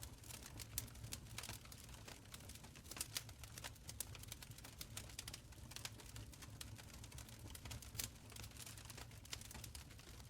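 Wood fire crackling in a stone fireplace: irregular sharp pops and snaps over a low, steady rumble of burning.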